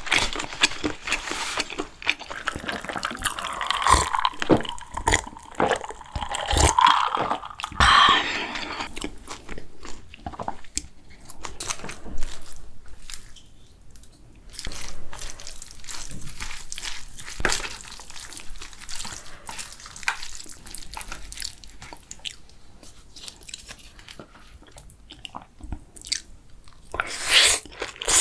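Close-miked eating sounds: chewing and crunching mouthfuls of food, with many short sharp clicks. The clicks come thick in the first eight seconds, thin out through the middle, and bunch up again near the end.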